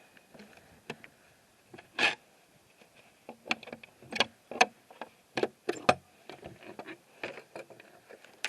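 A string of irregular sharp clicks and knocks, about a dozen, the loudest about two seconds in and most of them bunched between three and a half and six seconds in.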